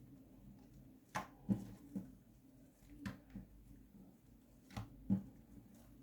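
Slime being squeezed and pressed by hand, giving irregular soft pops and clicks, about eight in a few seconds, the loudest near the end.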